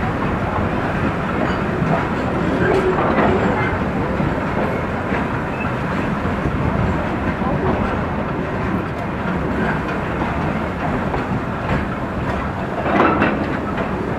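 Steam-hauled tourist train running along the track: a steady rumble with the wheels clattering over the rail joints.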